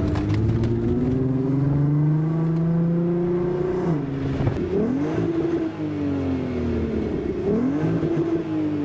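Golf R32's 3.2-litre VR6 engine through a Milltek exhaust, heard from inside the car: the revs climb steadily for about four seconds and then drop. Twice after that the revs jump up briefly and then sink slowly, as with blipped DSG downshifts while the car slows.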